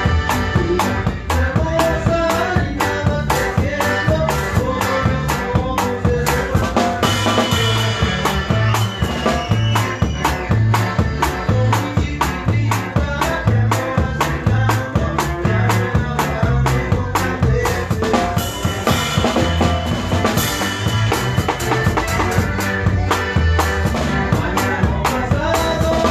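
Live norteño band playing a song, with a drum kit keeping a steady beat under the bass and melody lines.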